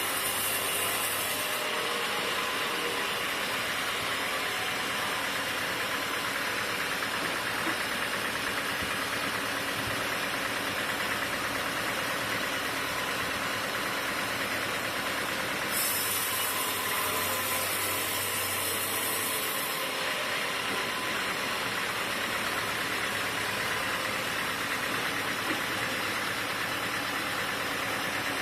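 Sawmill machinery running steadily. A high hiss with a low hum comes in twice: briefly at the start, and for about four seconds past the middle.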